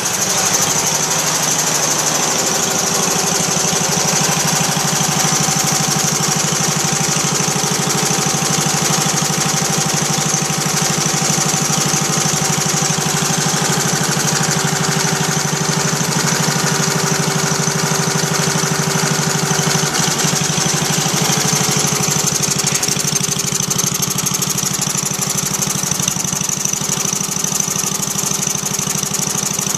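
1937 Briggs & Stratton Model Y, a small single-cylinder air-cooled gas engine, running steadily at an even speed. It was revived from a parts engine by cleaning its ignition points.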